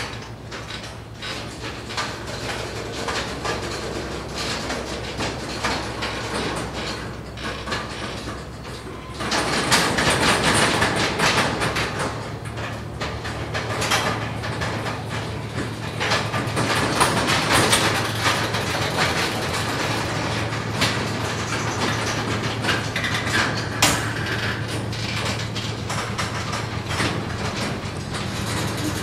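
Railway train rolling along the track, its wheels clicking and rattling over the rails. About nine seconds in it grows louder and a steady low hum joins it.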